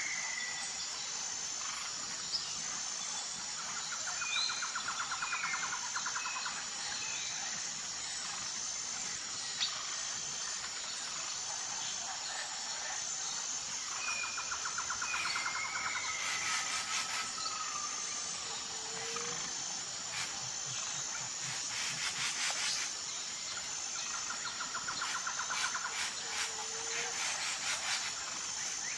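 Outdoor nature chorus: a steady high, pulsing insect drone with a trill that recurs every ten seconds or so, and short bird chirps and whistles over it. A rapid clicking chatter joins in during the second half.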